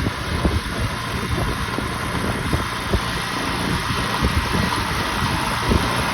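Grillo walk-behind tractor's engine running, with a steady rushing noise and uneven low thumps.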